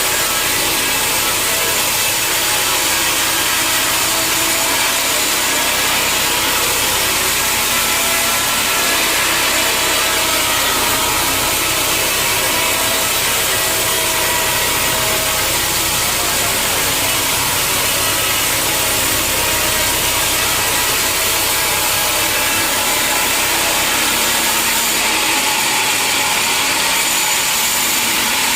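Sawmill saw cutting steadily through a large log: a loud, even sawing hiss, with the mill's motor humming low underneath.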